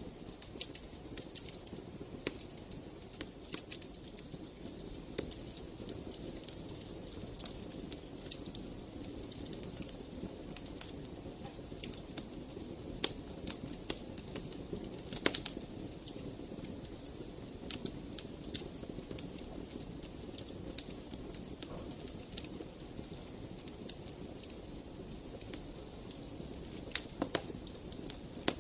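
Wood fire in a fireplace crackling: irregular sharp pops and snaps, a few louder ones, over a steady low rush of the flames.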